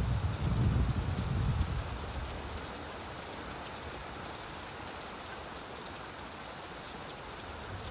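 Steady rain falling, with a low rumble of distant thunder that fades out over the first two seconds.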